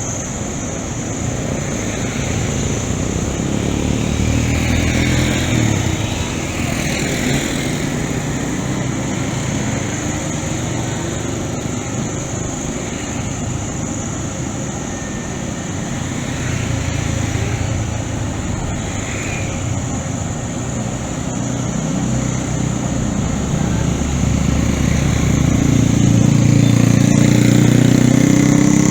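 Caterpillar long-reach excavator's diesel engine running steadily, getting louder twice as it works under load, most strongly near the end.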